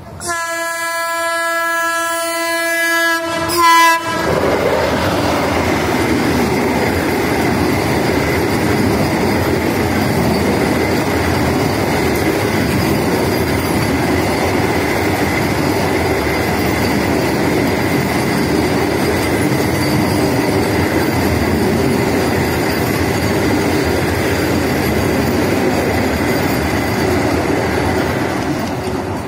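Vande Bharat Express electric trainset sounding its horn: one long blast of about three seconds, then a short louder one. It then passes at speed in a loud, steady rush of wheels on rail that eases off near the end.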